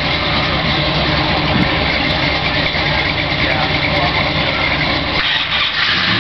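Race-built 426 Hemi V8 of a 1968 Plymouth Road Runner idling steadily and loud.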